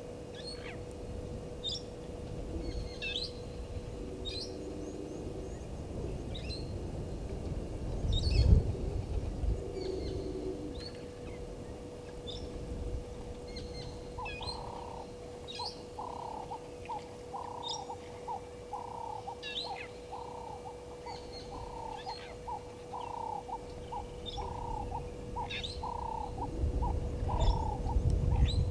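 Several wild birds calling: scattered short high chirps and whistles throughout, and from about halfway a lower call repeated a little more than once a second. A low rumble swells briefly about a third of the way in and again near the end, over a faint steady hum.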